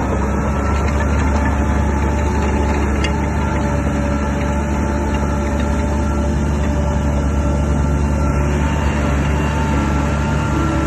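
Crawler bulldozer's diesel engine running steadily with a heavy, low drone and a few steady higher tones over it.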